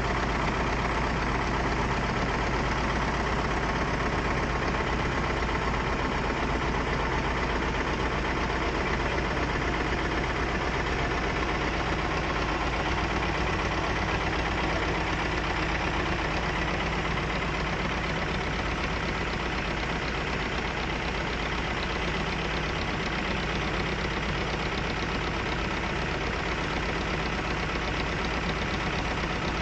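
A motorboat's engine running steadily.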